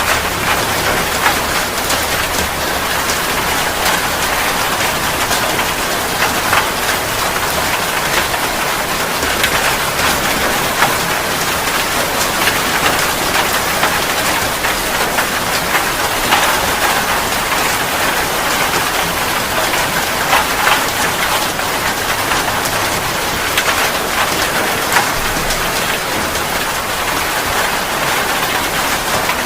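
Steady rain falling: a dense, even hiss of rain on surfaces with many individual drops ticking through it.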